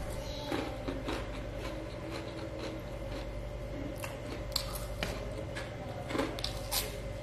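Close-miked chewing of a mouthful of rice and crunchy fried cracker (kerupuk), wet mouth sounds broken by a few short sharp crunches and clicks, over a steady electrical hum.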